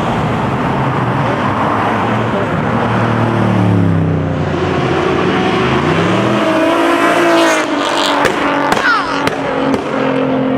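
High-horsepower race car engine revving: its pitch drops, then climbs again. This is followed by a string of sharp exhaust pops and cracks in the last few seconds.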